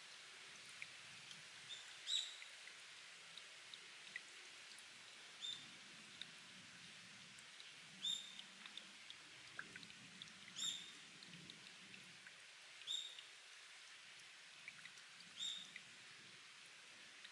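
Spring water dripping off rock into a pool: a clear drop plinking about every two and a half seconds, with smaller drips in between, over a faint steady hiss.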